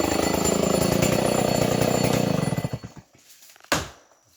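Chainsaw engine running at speed, then dying away about two-thirds of the way through. A single sharp knock follows near the end.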